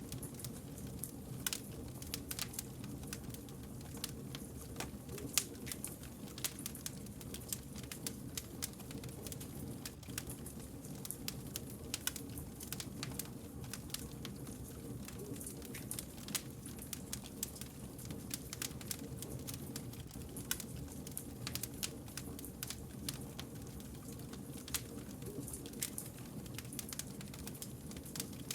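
Wood campfire crackling: many sharp, irregular pops and snaps over a steady low rushing sound from the burning fire.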